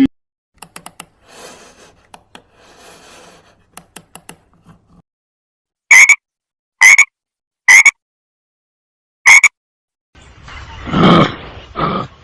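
Animal calls: faint clicking and chirping, then four loud, short, sharp calls about a second apart. Near the end a different, lower animal call begins.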